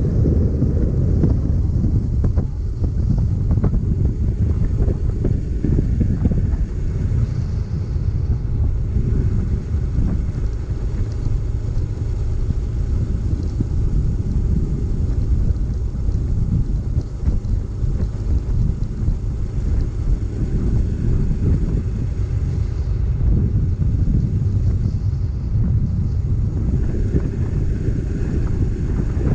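Wind buffeting the microphone on a moving motorcycle, a steady low rushing noise with the bike's engine and road noise running underneath.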